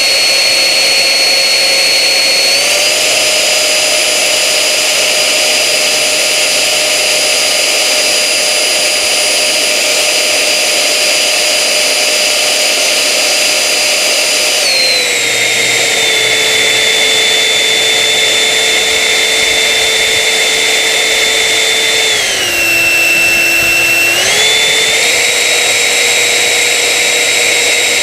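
Electric ducted-fan motors of a battery-powered RC Jetman model running at throttle on a ground test, a steady high whine. The pitch steps up slightly about three seconds in, drops about halfway through, dips lower for a couple of seconds near the end, then climbs back as the throttle is moved.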